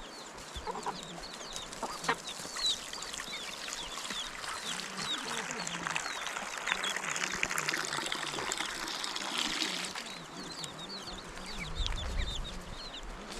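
Chickens on the farm: many short, high cheeping calls repeat throughout, with occasional clucks. A hissing noise swells up in the middle and dies away about ten seconds in.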